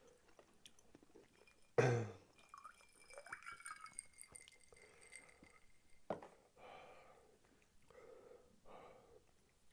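Close-miked chewing and mouth sounds of someone eating spicy tteokbokki rice cakes, soft and irregular. A short loud thump comes about two seconds in, and a sharp click about six seconds in.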